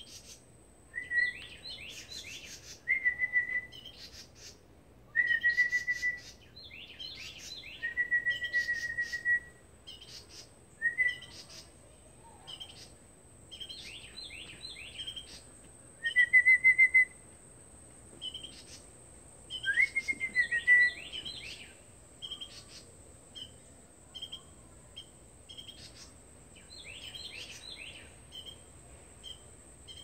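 Birds calling: short held whistled notes, each followed by a quick run of chirps, repeating every few seconds, with a faint steady high-pitched whine underneath.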